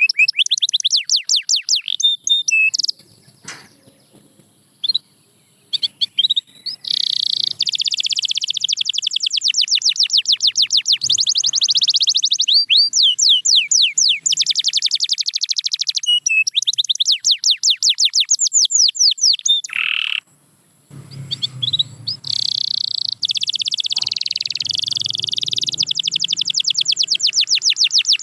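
Domestic canary singing: long, fast high-pitched trills and rolls of rapidly repeated notes, pausing for a few seconds near the start and again briefly about twenty seconds in.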